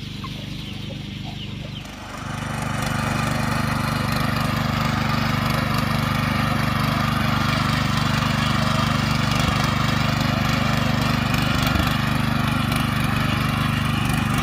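Small petrol engine running steadily, coming in louder about two seconds in. Before it, chickens clucking faintly.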